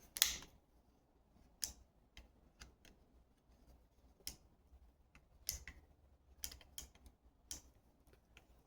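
Scattered light clicks and taps, about ten, irregularly spaced, from small parts of a garage door opener's controls being handled and snapped in and out.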